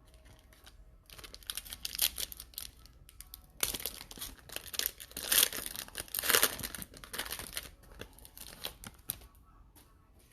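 A foil trading-card pack being torn open and its wrapper crinkled, in irregular rustling bursts that are loudest in the middle.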